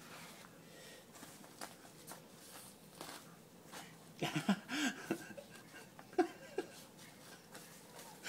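Faint rustling and light clicks of a fishing net being handled. Two short, low vocal sounds come about four and a half seconds in, and a couple of smaller ones a little later.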